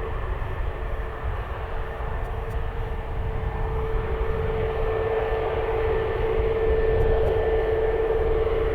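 Airliner engines running: a steady tone over broad engine noise and low rumble, growing louder a little past halfway through.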